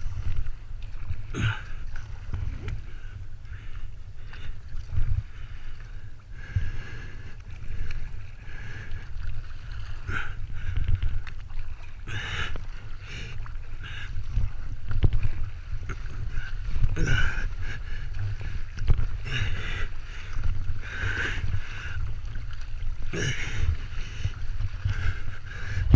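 Kayak paddle strokes splashing in the sea, a stroke every second or two, over a steady low rumble of water and wind on the microphone.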